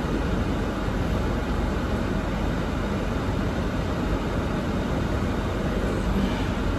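Steady rushing noise inside a car cabin, the air conditioning blowing on full.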